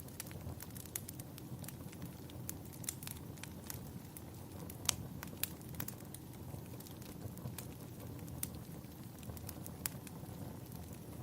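Wood fire burning in a fireplace, crackling with irregular sharp pops over a low steady rumble; the loudest pop comes about five seconds in.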